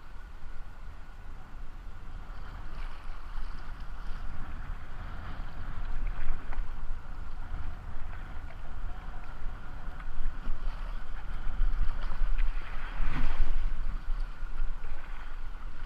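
Kayak on a river: rushing, splashing water around the boat with a few sharper splashes, under a low rumble of wind on the microphone.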